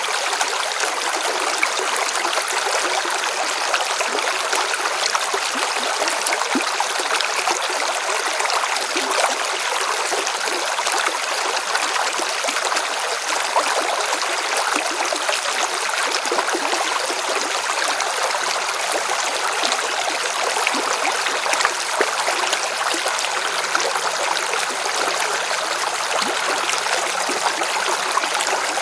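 River water splashing and rushing over stones in a steady, continuous flow.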